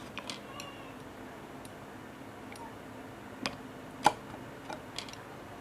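Scattered sharp clicks and taps of eating, with the loudest single tap about four seconds in.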